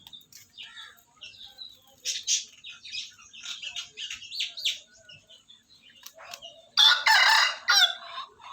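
Small birds chirping in short high notes, then a rooster crows once near the end, loud and lasting about a second.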